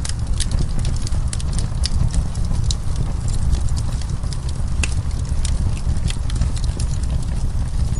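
Burning wood crackling and popping: many quick, irregular sharp snaps over a steady low rumble of the flames.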